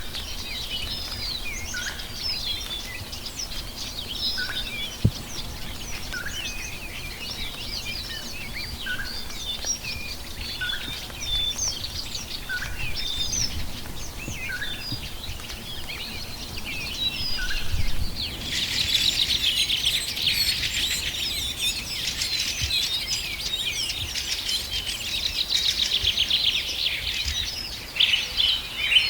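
Several tropical forest birds calling together: many short high chirps, with a lower single note repeated about once a second through the first half. About two-thirds of the way in, a dense, fast trilling chatter starts up and runs on over the chirps.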